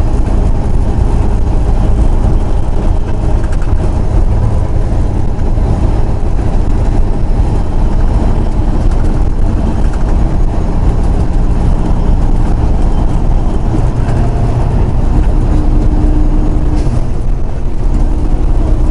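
Semi-truck driving down the road, heard from inside the cab: a loud, steady low engine drone mixed with road noise.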